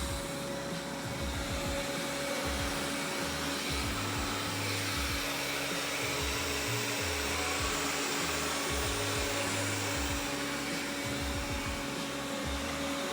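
Robot vacuum cleaner running steadily, a constant whirring hum of its suction fan and brushes, with music underneath.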